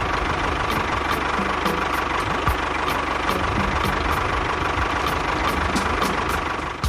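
A small engine running steadily, with a regular ticking about three times a second over a constant hum.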